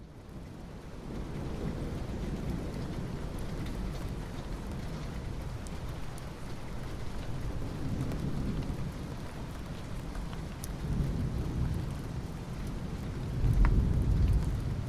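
Steady rain falling on asphalt, a soft even hiss of drops. Under it run low rumbling swells, the loudest about thirteen to fourteen seconds in. The rain rises in over the first second.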